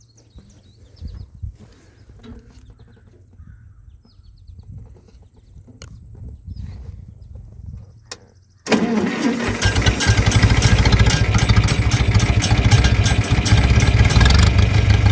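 John Deere 3010 tractor engine starting with a sudden catch a little over halfway through and then running steadily, loud, with a strong low hum. Before it starts there are only faint knocks and clicks.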